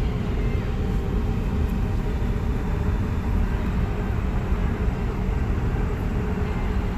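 Steady low rumbling background noise with no clear events in it.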